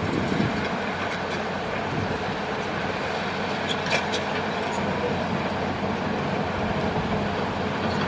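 Hitachi excavator's diesel engine running steadily, with a brief metallic clatter about four seconds in.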